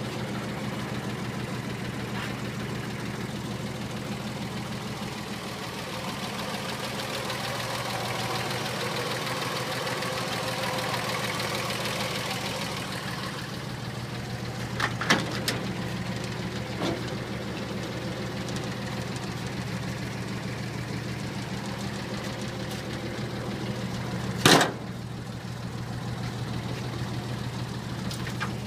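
1951 Chevrolet pickup's inline-six engine idling steadily. A few sharp knocks are heard: two about halfway through, and a louder one about three-quarters of the way in.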